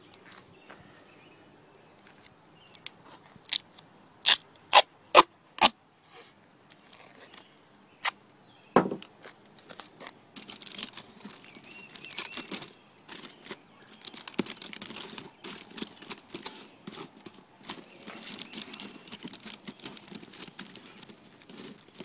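Aluminum foil and duct tape being handled while a cardboard box is covered. A few sharp snaps come about three to six seconds in, and from about ten seconds on there is steady crinkling and tearing.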